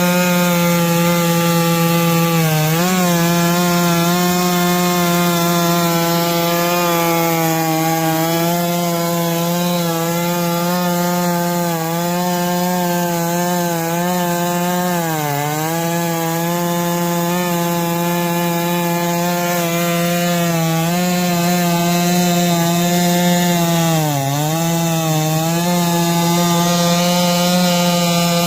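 NS892V Stihl MS660-clone two-stroke chainsaw running at full throttle while ripping a log on a chainsaw mill, a steady high engine note. The pitch sags briefly three times, about three seconds in, midway and near the end, as the engine bogs under the cut and recovers.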